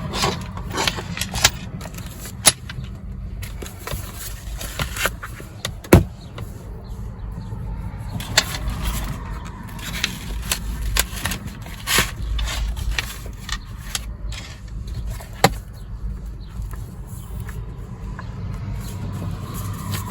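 Handling of a traveler's notebook cover and its paper inserts: scattered rustles and taps with a few sharp clicks, over a steady low hum.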